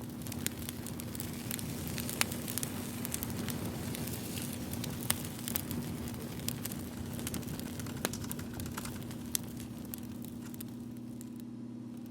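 Wood fire crackling, with irregular sharp pops over a steady low hum.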